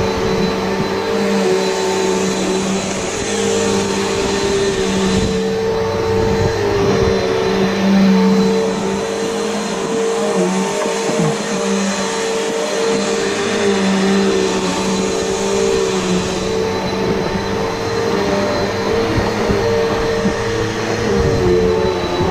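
Upright vacuum cleaner running continuously: a steady motor whine under a rush of air that swells and eases.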